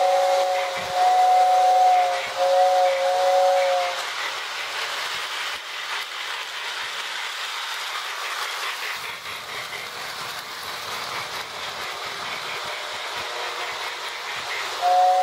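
Toy train's two-note steam whistle sounds a few blasts over the first four seconds, then gives way to the electronic steam chuffing and hiss of a Lionel sound-of-steam board played through a small Marx speaker in the tender. The whistle starts again near the end.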